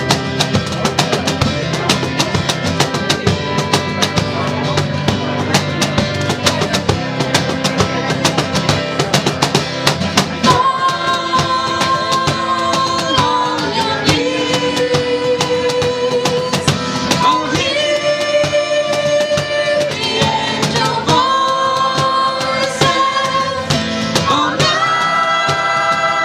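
Live acoustic band playing with hand percussion and plucked strings. About ten seconds in, voices come in singing long held notes over the instruments.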